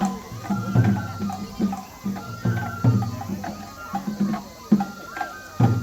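Japanese festival music for a lion dance: taiko drums struck in a lively rhythm, with ringing low strokes, under a high held flute melody.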